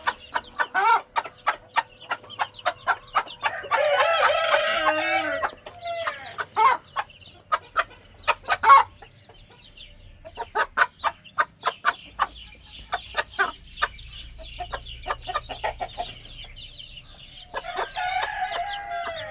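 Chickens feeding: a hen clucking in quick runs of short notes over the peeping of chicks. There is a longer drawn-out call about four seconds in and another near the end.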